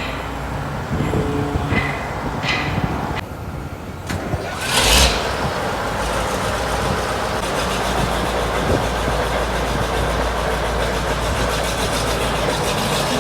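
Diesel engine of a T-150K tractor starting: after a few seconds of scattered knocks and clicks, it catches with a loud burst about five seconds in and then runs steadily.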